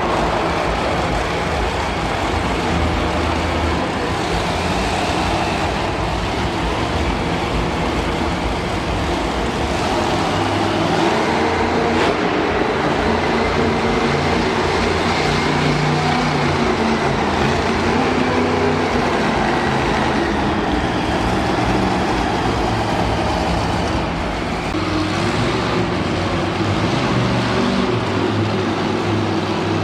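Monster truck engine running loudly, its pitch rising and falling as it is revved.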